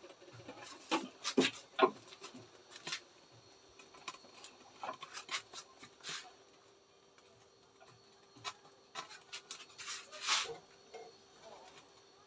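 Scattered knocks, clinks and scrapes of cookware and utensils being handled while cooking, over a faint steady hum. The loudest come in a cluster about a second in and again near the end.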